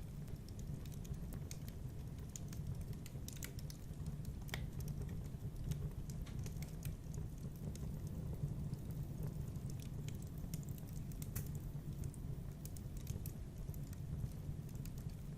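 Wood fire in a fireplace crackling, with irregular sharp pops and snaps over a steady low rumble of flames.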